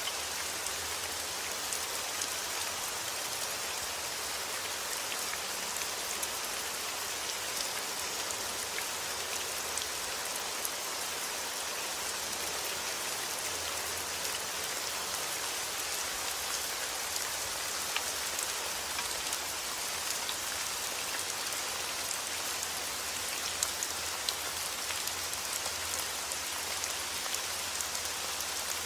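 Heavy rain falling steadily, a dense even hiss with many small drop impacts pattering on surfaces.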